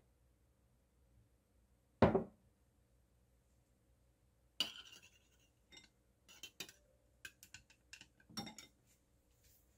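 A metal spoon and chopsticks clinking and scraping against a stoneware bowl while oyster sauce is stirred into beaten eggs: a scatter of light clinks from about halfway on. A single louder knock comes about two seconds in.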